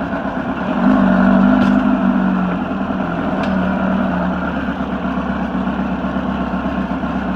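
Turbocharged 2332cc air-cooled VW flat-four engine running. It gets louder for a second or so about a second in, then settles back to a steady note.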